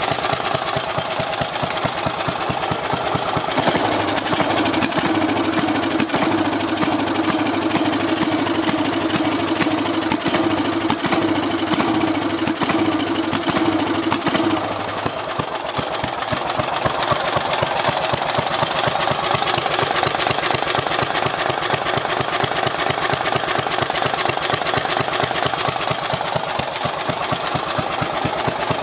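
Rebuilt 12 hp (465 cc) Briggs & Stratton single-cylinder engine of a Craftsman mower running steadily on rich oversized jets, with a rapid even firing beat. A steady higher tone rides over it from a few seconds in until about halfway.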